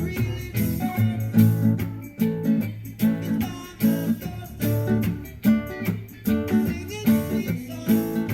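Guitar strumming chords in a steady rhythm, with the strings damped between strums so that each stroke is cut short and gives a little percussive chop.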